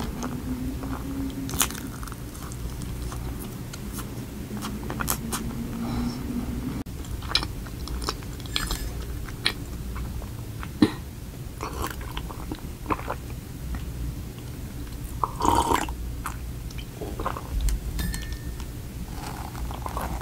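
Close-miked chewing and mouth sounds as a piece of chocolate Oreo donut is eaten, with many scattered sharp clicks and smacks and a low steady hum under the first several seconds. Partway through, a drink is sipped from a mug and swallowed.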